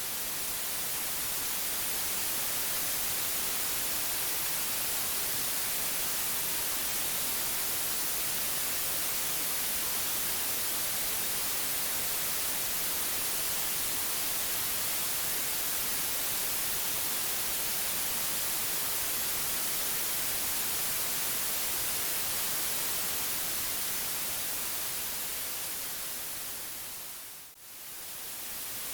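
Steady white noise: an even, hissing static spread across all pitches, brightest in the treble. About 27 seconds in it fades down to a brief dip and swells straight back up.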